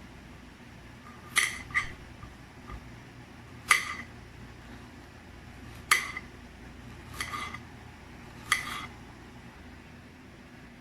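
Kitchenware clinking: a series of short, sharp knocks of dishes or utensils, about one every two seconds.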